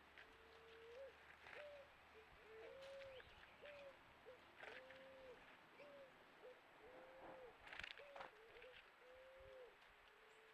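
Juriti (Leptotila dove) cooing: a faint series of low hooting notes, some short and some drawn out, with a few faint clicks among them.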